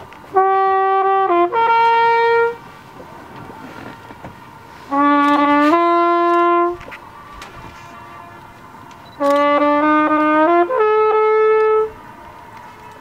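A brass horn playing three short phrases of two held notes each, rising at the close of each phrase, with pauses of a couple of seconds between them. It is played to draw an echo back off the lake's rock walls.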